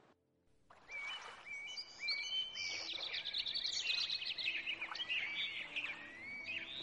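Several small birds chirping and whistling at once, many short quick calls overlapping, starting after a moment of silence near the start.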